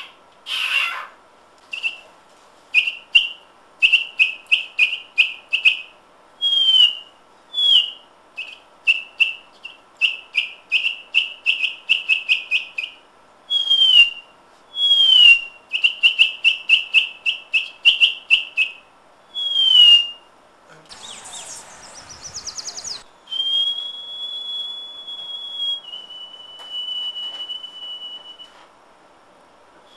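A person whistling a bird-call imitation: runs of quick repeated whistled notes broken by falling slurred notes, then long steady whistled tones near the end. A short burst of noise comes about two-thirds of the way through.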